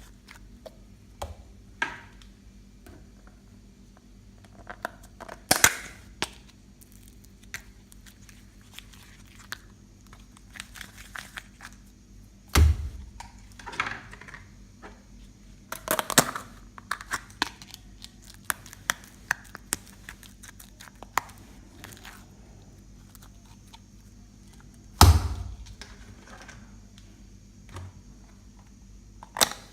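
Slime being squished, stretched and folded by hand, giving irregular wet clicks and air-bubble pops. Two heavier slaps with a low thud come near the middle and near the end.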